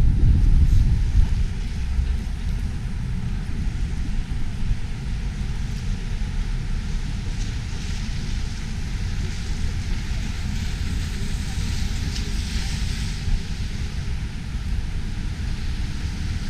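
Snowstorm wind buffeting the microphone, a low rumble that is heaviest at the start, over a steady hiss that swells briefly about twelve seconds in.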